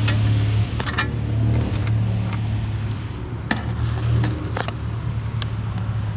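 Mercedes SL500's 5.0-litre V8 idling steadily with a low, even hum, with a few sharp clicks over it.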